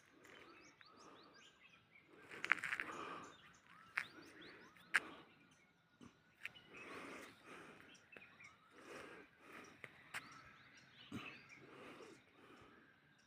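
Quiet outdoor ambience with small birds chirping here and there, soft swells of noise coming and going, a louder swell about two and a half seconds in, and a few sharp clicks.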